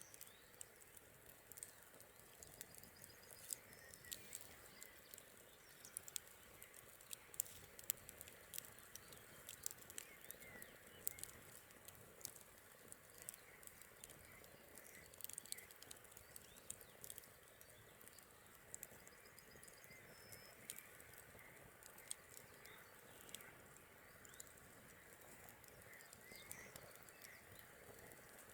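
Campfire crackling: irregular sharp pops and snaps, faint, over a steady soft hiss.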